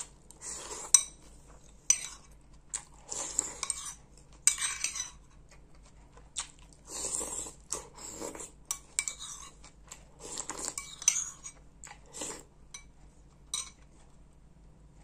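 A spoon clinking and scraping against a bowl of soup during fast eating, with short noisy eating sounds between the clinks. The clinks and bursts come irregularly and stop near the end.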